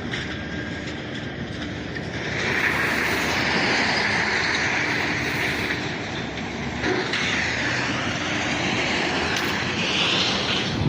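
Steady vehicle noise that swells about two seconds in and stays up, with a faint low hum under it.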